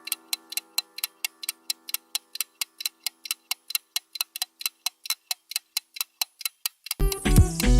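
Clock-ticking countdown timer sound effect: rapid, evenly spaced ticks. Music with plucked guitar comes in near the end.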